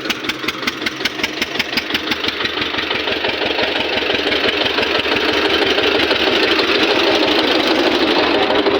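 Eicher tractor's diesel engine running, with a clear regular knock of about six to seven beats a second at first that blurs into a steadier, louder run as the engine picks up.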